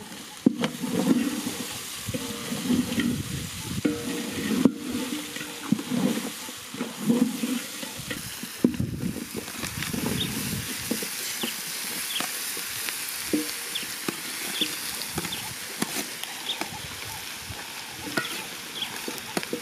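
Food frying in a metal cooking pot: stirring and scraping knocks for the first several seconds, then a steady sizzling hiss with small crackling pops.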